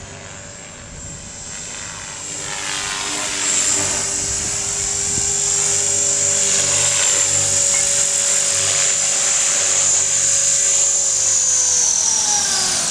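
Electric 450-size RC helicopter (Trex 450 clone) in flight: high brushless-motor whine and rotor drone, getting louder a couple of seconds in and then holding steady. Near the end the pitch falls as the rotor slows.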